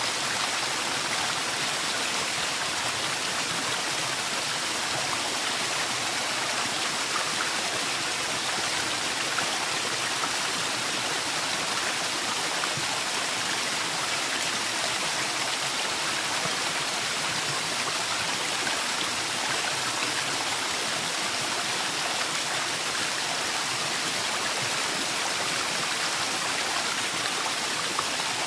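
Waterfall in a forest: a steady, unbroken rush of falling water, bright and hissy rather than deep.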